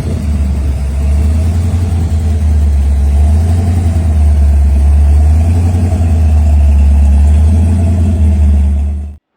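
A car engine running with a deep, steady low rumble, then cutting off abruptly near the end.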